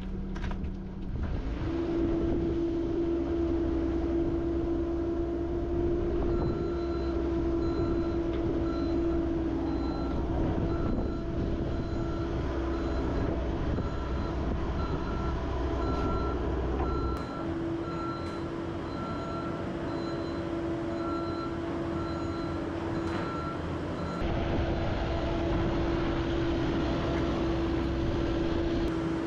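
Cat 308 excavator's diesel engine running with a steady tone while the machine tracks, its travel alarm beeping repeatedly from several seconds in.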